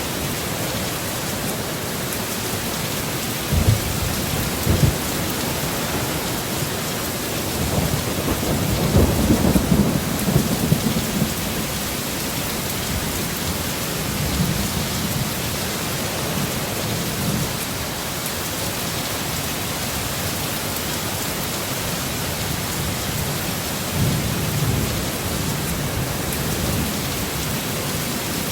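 Heavy rain falling steadily, with low rolls of thunder rumbling several times, the loudest about eight to eleven seconds in.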